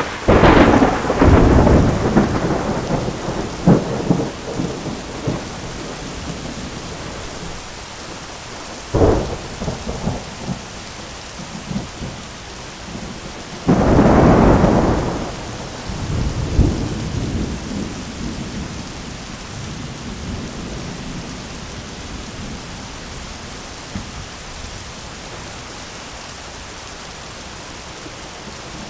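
Thunderstorm: steady heavy rain hiss with thunder. A close crack right at the start rolls on for several seconds, a shorter crack comes about nine seconds in, and a loud rumble about fourteen seconds in fades away over several seconds, leaving rain alone for the last stretch.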